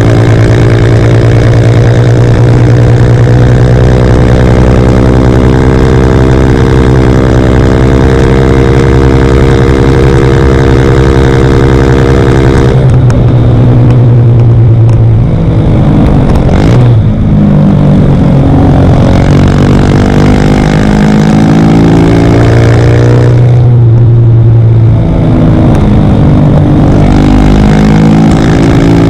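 Single-cylinder engine of a CF Moto Papio XO-1 running loud through a Yoshimura RS-9 exhaust, held at steady high revs for about thirteen seconds. The revs then drop, climb back up and hold, dip again, and rise once more near the end.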